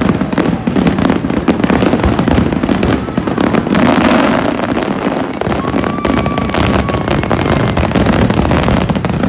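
Fireworks finale: a dense, continuous barrage of aerial shell bursts, the bangs echoing off the surrounding skyscrapers.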